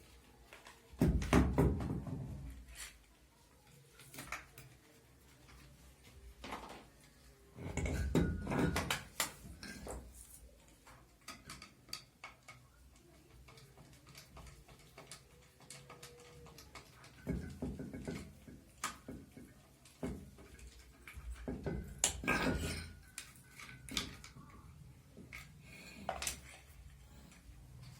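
Scattered clinks and knocks of metal tools and parts being handled, with a few heavier clattering thuds spread through the stretch.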